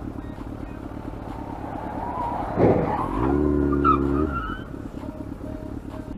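Car and road noise with a sudden loud burst about two and a half seconds in, followed by a steady low pitched tone lasting about a second and a brief high squeal.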